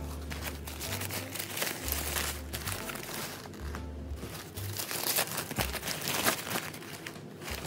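Packaging crinkling and rustling as it is handled during an unboxing, in irregular crackly bursts, over background music with a low bass line.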